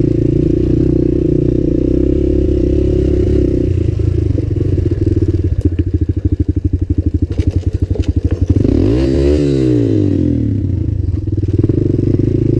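Suzuki LTZ 250 quad's single-cylinder four-stroke engine running through a DG Performance RCM II aftermarket exhaust. About halfway through it drops to a slow, even throbbing for a few seconds, then the revs rise and fall again before it settles back into steady running.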